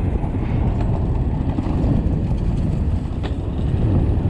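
Riding noise from an electric KX80 dirt bike on a dirt trail: a steady low rumble of wind and tyres on the ground, with no motor whine. There is a single sharp click about three seconds in.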